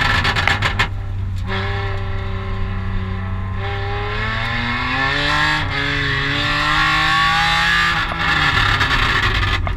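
Car engine under hard acceleration, its pitch climbing steadily through one gear for several seconds, then dropping at a gear change near the end.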